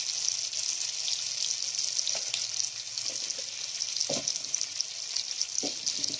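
Chopped tomatoes frying in hot oil in a kadai: a steady sizzle full of small crackling spits as they soften with salt and turmeric. There are a few faint soft knocks about two, four and five and a half seconds in.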